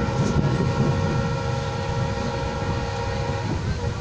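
Train horn sounding one long steady blast over the low rumble of the moving train, cutting off about three and a half seconds in.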